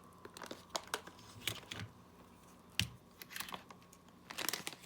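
Scattered light clicks, taps and crinkling as small items are handled on a work surface, with one sharper knock about three seconds in.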